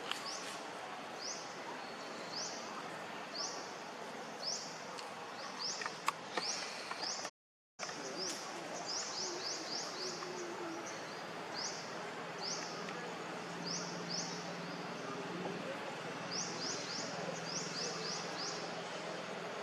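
A bird calling with short, high, rising chirps, spaced about a second apart and sometimes run together in quick series, over a steady outdoor background hiss. The sound drops out completely for a moment about seven seconds in.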